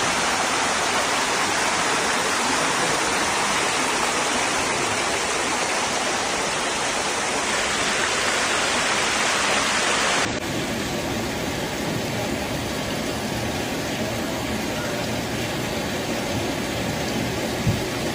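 Steady rush of flood water. About ten seconds in it cuts abruptly to a quieter, duller steady rumble, with a single short knock near the end.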